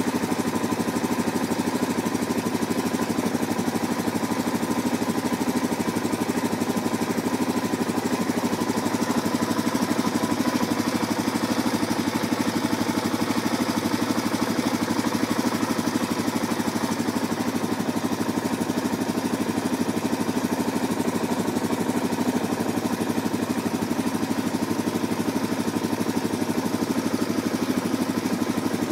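Motorcycle engine idling steadily, an even fast pulse that neither revs nor changes.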